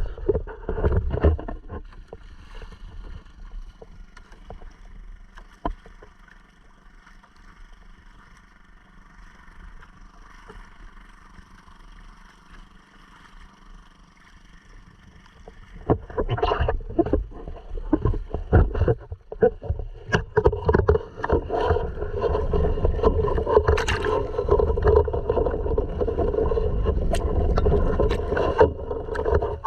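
Honda 2.3 hp four-stroke outboard running on a sea kayak, with water splashing and knocks against the hull. The drone is quieter through the first half and louder from about halfway on.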